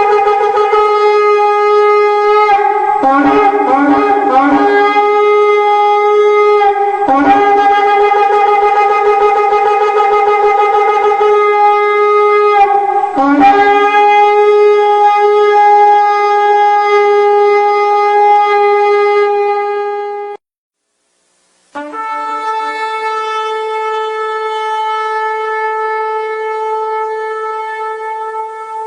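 Shofar (ram's horn) sounding long, held blasts, with wavering breaks where the note jumps down and back. It stops for about a second roughly two-thirds of the way through, then sounds one more long blast that fades near the end.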